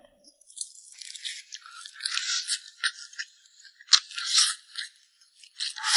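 Close, crisp crunching and crackling of a person biting and chewing cooked starfish, in irregular spells.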